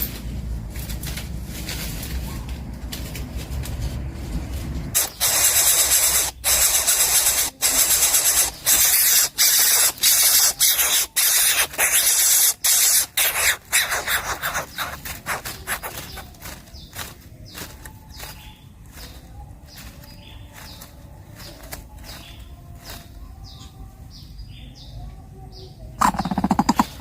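Harsh hissing from a greater coucal nestling in rapid bursts, loud for about ten seconds and then fading.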